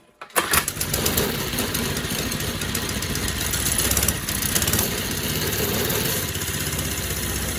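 Mini bike's small engine cuts in and runs steadily. Its carburetor is still partly clogged but is running a little better.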